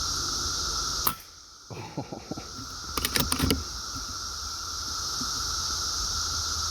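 Steady high-pitched drone of a dense periodical cicada chorus, broken about a second in by a single sharp shot from an FX Panthera Hunter Compact .22 PCP air rifle. A few quick clicks follow about two seconds later.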